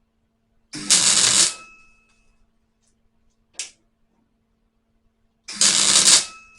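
Two short bursts of welding crackle, each under a second, about four and a half seconds apart: tack welds fixing a new sheet-steel patch into a rusted spare wheel well. A faint steady hum runs underneath, with a small click between the tacks.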